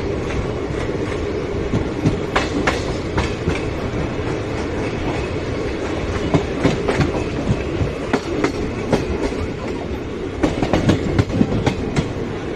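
Passenger train coach running along the track, heard from its open window: a steady rumble of the wheels with sharp clacks as they cross rail joints and points, coming in clusters, the thickest near the end.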